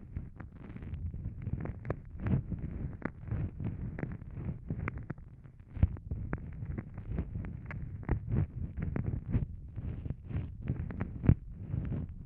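Wet ASMR mouth sounds at a microphone's ear: licking, sucking and smacking, with many irregular sharp clicks over a low, muffled rumble.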